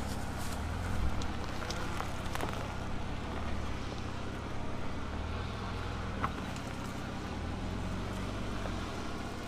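2023 Ford Ranger Raptor's 3.0-litre V6 running steadily as the pickup drives, with a few short sharp ticks and knocks.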